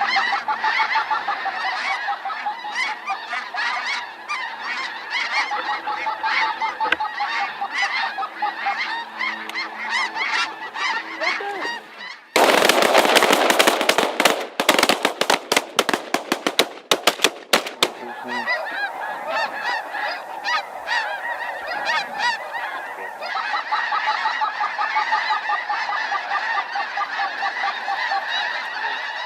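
A large flock of snow geese calling, a dense unbroken chorus of honks. About twelve seconds in, a loud rushing noise with a quick string of sharp cracks cuts across it for around five seconds, then the goose calling carries on.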